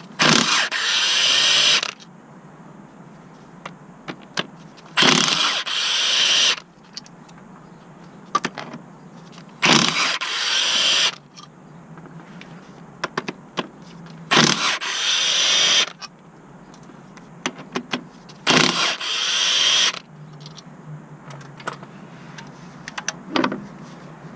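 Cordless power tool run in five bursts of about a second and a half each, a few seconds apart, with small clicks and knocks between them.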